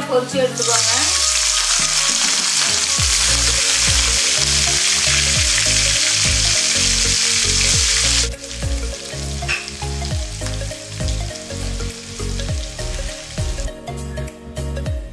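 Prawns frying in hot oil in a pan, a loud, steady sizzle that starts as they go in. About eight seconds in the sizzle drops sharply and carries on more quietly.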